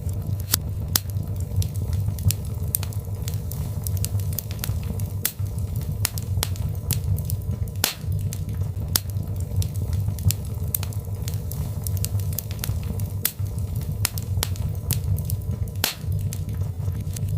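Birch logs burning in a fireplace: a steady low rumble of the fire with frequent sharp crackles and pops at irregular intervals.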